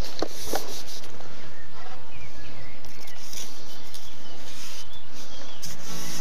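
Steady outdoor noise at the bankside, with a few faint bird chirps. Two soft knocks come in the first second.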